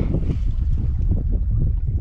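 Wind buffeting the microphone: a steady, loud low rumble with irregular flutter.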